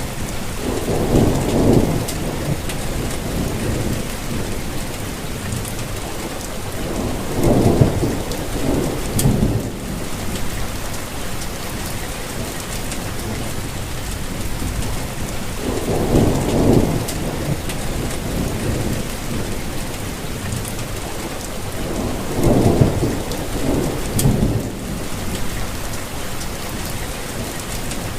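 Steady rain falling, with four low rumbles of thunder spread through it, each lasting a second or two.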